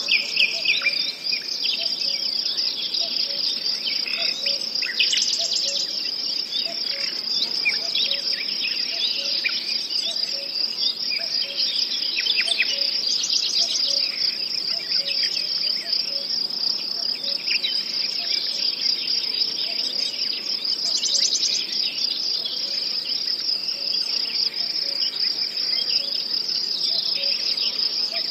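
Nature soundscape: crickets chirring steadily and high, with birds calling in short chirps over it and a faint low note repeating about once a second.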